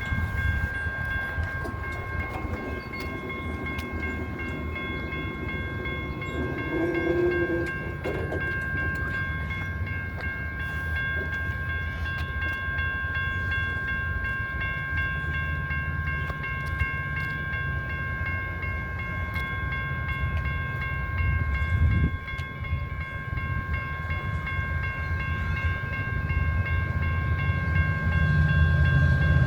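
A train running, a low rumble that grows louder near the end, with a steady high whine held throughout.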